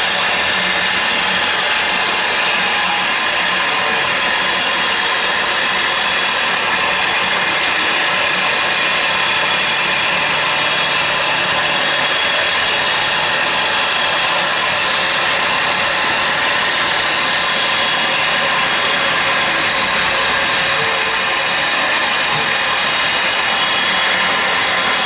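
C&C K-45MT CNC turning centre milling with a driven tool in its powered turret: a loud, steady machining whir with several steady high tones and no breaks.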